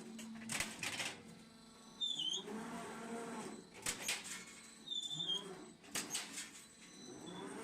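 Roll-forming line for steel scaffold planks running in a repeating cycle: a motor whine that rises and falls, and a short burst of metal clatter about every two to three seconds.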